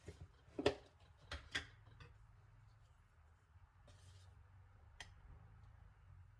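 Kitchen items being handled during baking prep: a few short clicks and knocks. The loudest comes just under a second in, two more follow around a second and a half, and a lighter tap comes near five seconds.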